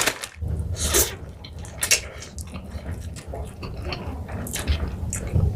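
Close-miked eating of crunchy fried snacks: irregular crackly bites and wet chewing, with the sharpest crunches about a second and two seconds in.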